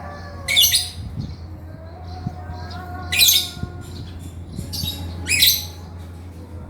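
Male lovebird giving loud, shrill, harsh chattering calls in four short bursts, over a faint steady low hum.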